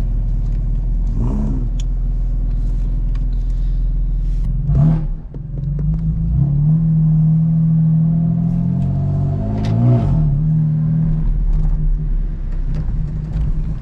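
Car engine running under way, its note dipping briefly with a knock about five seconds in, then holding a strong, steady drone.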